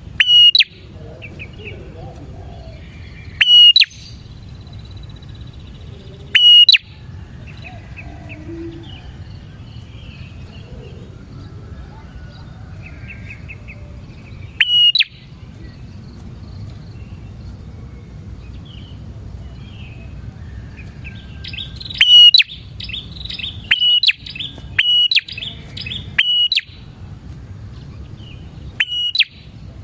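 Prinia (prenjak) calling: loud, short, sharp chirps repeated every few seconds, coming in a quicker run about two-thirds of the way through, with fainter twittering between them.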